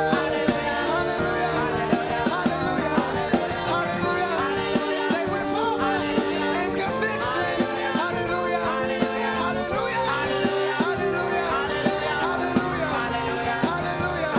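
Live gospel praise band playing an upbeat song with a steady drum beat under held chords, with singing.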